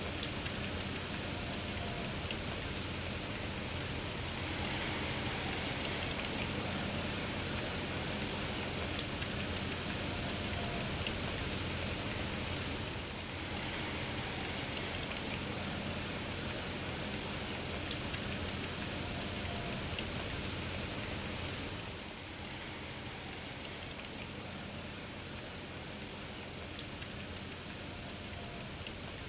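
Steady rain falling, an even hiss, with a single sharp tick about every nine seconds. The rain gets slightly quieter about three-quarters of the way through.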